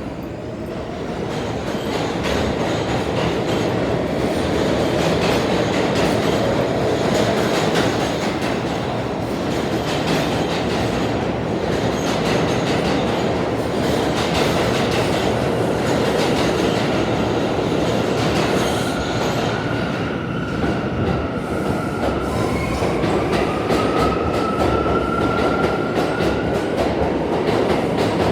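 New York City Subway train running on the tracks: a loud, steady rumble and clickety-clack of the wheels that builds over the first couple of seconds. Later, a high wheel squeal comes in and rises in pitch near the end.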